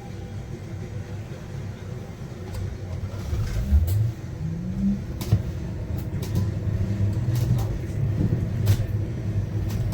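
Inside the cabin of a Yutong U12 battery-electric city bus as it gets under way: a low rumble grows louder from about three seconds in, with a short rising tone from the drive as it pulls off. Several sharp knocks and rattles come from the bus body along the way.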